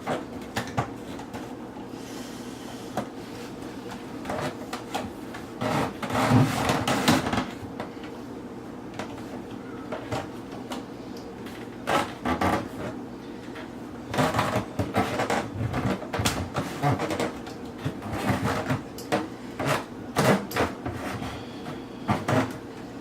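Clicks, knocks and scraping of garbage disposal mounting parts being handled and fitted together, coming in irregular clusters over a steady background hum.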